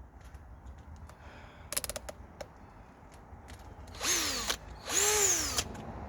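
Bauer cordless hammer drill given two short trigger pulls, its motor spinning up briefly and winding down each time, the second a little longer. A quick run of clicks comes before them.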